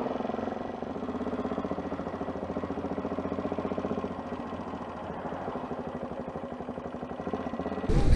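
Motorcycle engine running at low revs with a steady, even pulse, like idling or slow riding in traffic. Just before the end it cuts abruptly to a louder, different sound.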